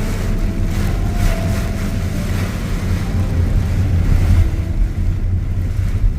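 Jeep driving through heavy monsoon rain: a steady low engine and road rumble under the hiss of rain, with the hiss thinning out near the end.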